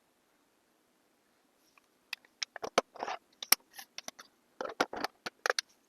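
Quick light clicks, taps and short scrapes of small hard objects being handled on a tabletop, such as press-on nails and polish bottles, starting about two seconds in.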